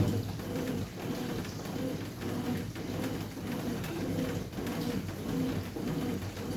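Consul 9 kg washing machine agitating on its rinse cycle: a low motor hum and water churn that rise and fall about twice a second.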